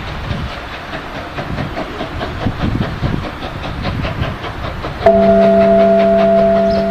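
Train running with a rhythmic clatter, from the Class 24 steam locomotive and its wagons. About five seconds in, a much louder steady tone of several pitches starts suddenly, holds for under two seconds, then fades.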